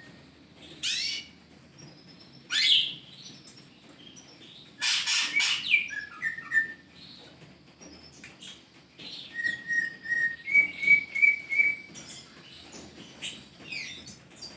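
Green leafbird (cucak ijo) calling: a couple of sharp sweeping calls, a loud harsh burst about five seconds in, then two runs of short clear whistled notes, the second run a little higher in pitch.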